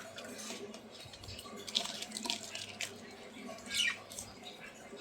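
Budgerigars chattering: a jumble of short high chirps and clicks, with one call that slides down in pitch near the end.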